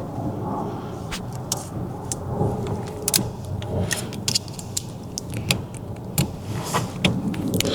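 Irregular sharp metallic clicks and scrapes of hand tools working at a retaining ring inside a steering column, over a steady low hum.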